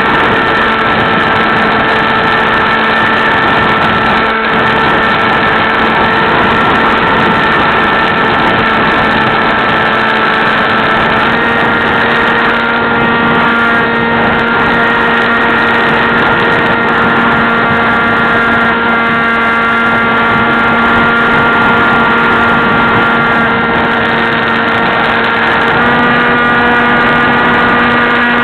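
Electric motor and propeller of an AXN Clouds Fly RC plane running in flight: a steady whine over a rush of air. The pitch steps up slightly twice, about eleven seconds in and near the end, as the throttle changes.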